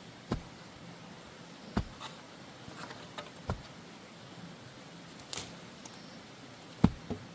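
A few separate sharp knocks, spaced a second or more apart, over a low steady hiss; two come close together near the end.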